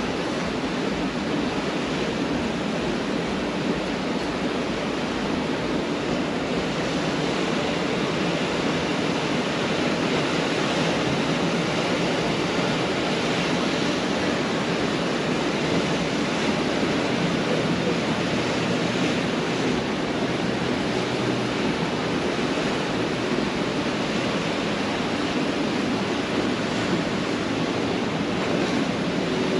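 Pacific Ocean surf washing onto a beach: a steady wash of breaking waves with no clear single breakers standing out.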